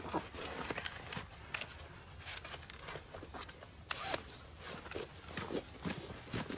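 Irregular rustling and light crunching footsteps, a few uneven steps a second, with no steady tone.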